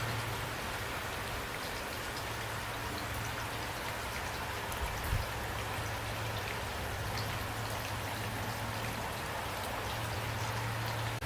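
Steady rain falling, with individual drops ticking sharply over an even hiss and a low steady rumble underneath.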